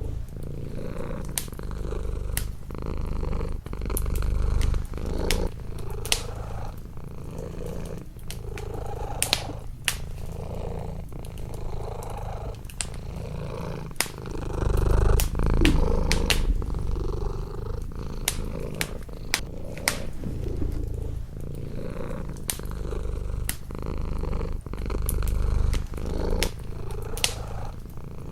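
A domestic cat purring close up, the low purr swelling and fading with each breath every second or two and loudest about halfway through. Over it a wood fire crackles, with sharp pops scattered throughout.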